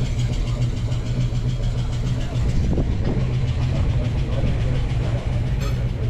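A car engine idling steadily, with a brief click near the end.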